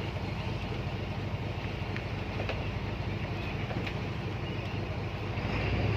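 A boat's engine runs with a steady low drone, and wind buffets the microphone.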